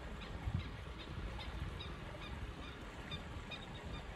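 Low rumble of a distant Suzuki Jimny wading slowly through a shallow river, mixed with wind on the microphone, while birds call with short high chirps a few times a second.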